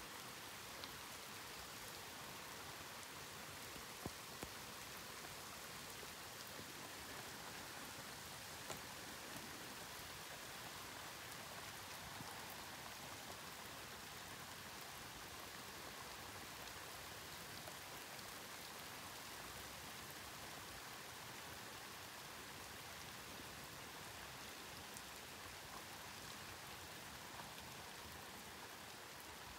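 Steady rain falling during a thunderstorm, with a few sharp ticks of drops landing close by.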